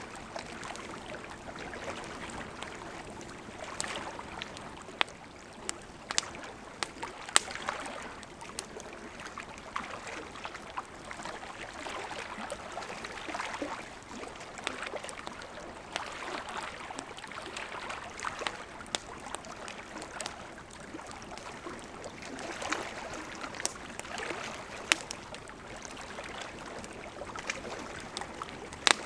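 Wood campfire burning, with a steady rushing hiss of flames and irregular sharp crackles and pops of burning wood, a few of them noticeably louder.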